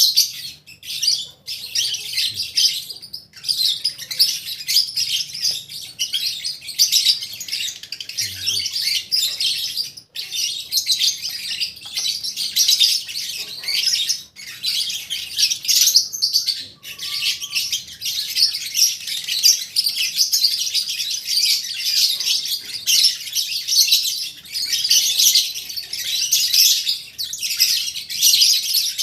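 Many lovebirds chirping and chattering at once in a dense, high-pitched, continuous din.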